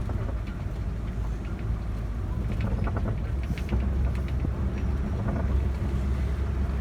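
Safari ride truck driving along with a steady low engine and road rumble, heard from on board the open-sided vehicle.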